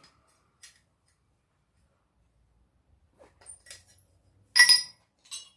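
Light metallic clinks and taps of steel on steel as a blade is set into the jaws of hand-forged blade tongs. The loudest clink, about four and a half seconds in, rings briefly, and a smaller one follows.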